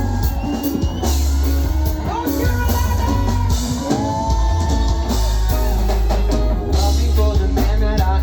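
Live rock band playing: drum kit and electric guitar over heavy bass, with a voice singing wordlessly over the music.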